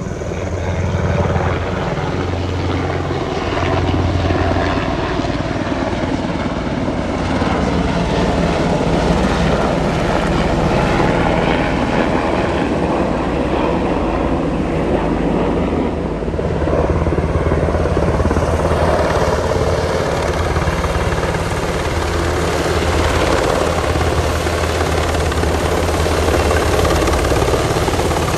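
Black Hawk military helicopters running loud and steady nearby, a continuous rotor and turbine noise with a strong low throb underneath.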